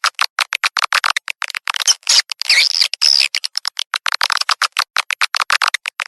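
Recorded swiftlet lure call: a fast run of short chattering chirps and clicks, about eight a second, with a longer trilling call about two and a half seconds in. This is a playback track used to attract edible-nest swiftlets to a swiftlet house.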